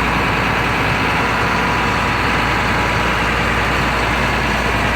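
2002 GMC C6500 bucket truck's engine running steadily.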